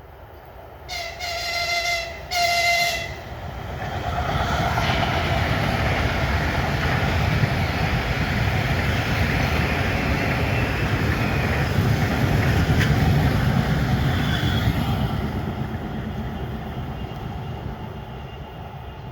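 A train sounds two horn blasts, the first about a second long and the second shorter, then passes at speed with a loud steady rumble that swells and fades away.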